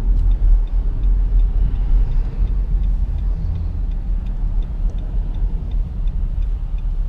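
Steady road and engine rumble inside the cabin of a moving 2017 Nissan Rogue SV AWD, with a light regular ticking about three times a second from the turn-signal indicator.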